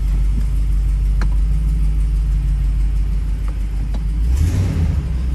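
RAM 2500 truck engine idling steadily once warmed up, without the clacking it makes from cold that is put down to an exhaust leak. About four and a half seconds in there is a brief louder rush over the idle.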